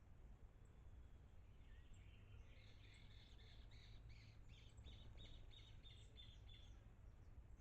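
A small bird calling faintly in a fast run of short, evenly repeated high notes, about three a second, starting about two seconds in and stopping near the end, over a low steady background rumble.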